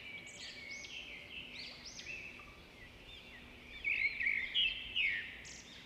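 Many small birds chirping at once, a dense run of overlapping short calls that swells a little near the end.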